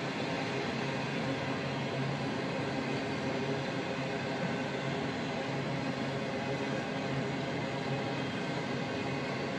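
Freight train of truck trailers on flatcars rolling past steadily: a continuous rumble and rush of wheels on rails with a low hum underneath.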